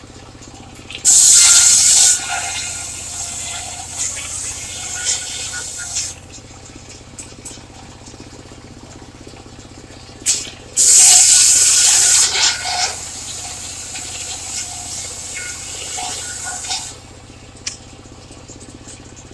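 Circular sawmill blade cutting through timber twice, each cut opening with about a second of loud hissing noise and then going on more quietly for several seconds. A steady low engine hum runs underneath.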